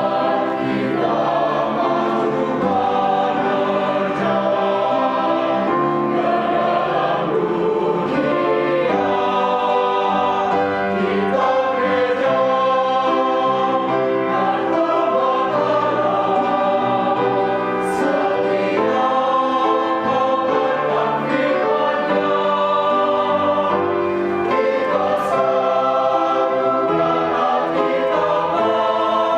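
Adult mixed choir singing an anthem in parts, steady and full throughout, with a few sharp "s" sounds from the singers.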